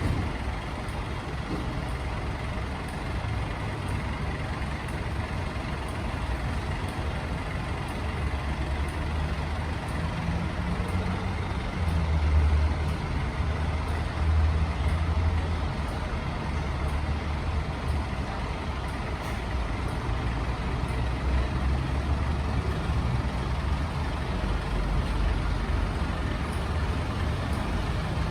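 Diesel engine of a heavy truck running steadily with a low rumble, growing louder for a few seconds around the middle.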